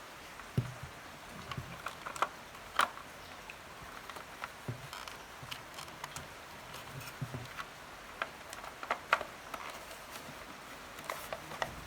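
Scattered light clicks and knocks from a radio being put back together by hand, its parts and fittings handled and set in place.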